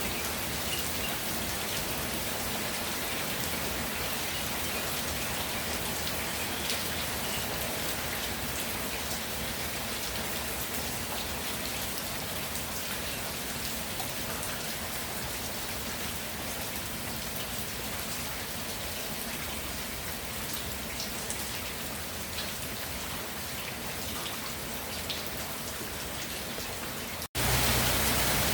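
Steady rain falling, an even hiss with scattered single drop ticks. Near the end it cuts out for an instant and returns louder, with a low hum underneath.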